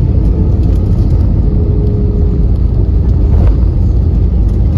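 Airbus A320 cabin noise heard from a window seat: a loud, steady, deep rumble of the aircraft rolling on the ground, with a faint steady tone partway through.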